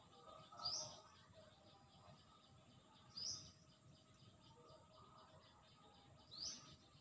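A bird calling: a short, high, upward-sweeping note repeated three times, about every three seconds, over faint steady outdoor background noise.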